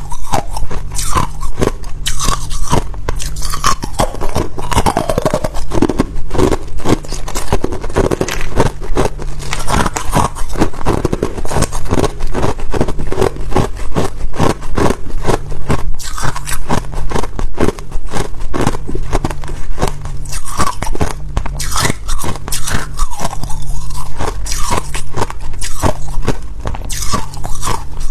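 Ice being bitten and chewed, a continuous run of crisp crunches and cracks.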